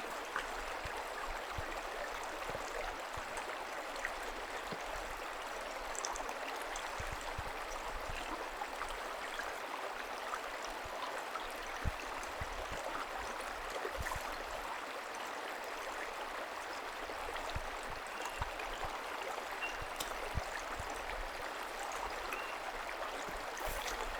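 A small creek flowing with a steady rush of water, broken by scattered soft low thuds.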